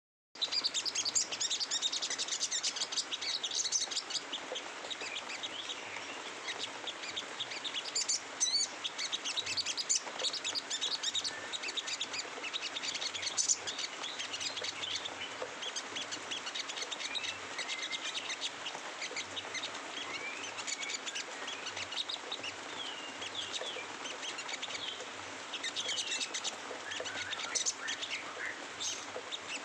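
Sogon (crested jay) giving a rough, rapid chattering song, the 'ngeriwik kasar' style: dense quick chirps with short pitch glides, repeating throughout.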